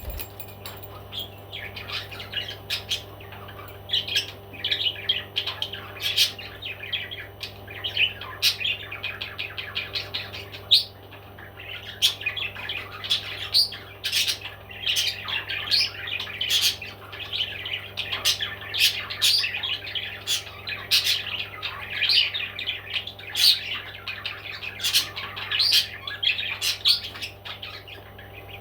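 Pet parrot chirping and squawking in quick, irregular calls and sharp clicks, over a steady low hum.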